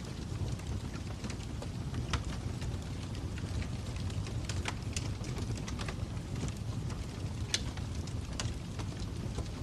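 Fire crackling: a steady low rumble of burning wood with irregular sharp pops and snaps, a louder pop about seven and a half seconds in.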